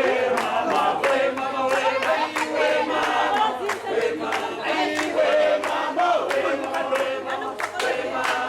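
Several voices together, sounding like group singing or chanting, with scattered sharp clicks.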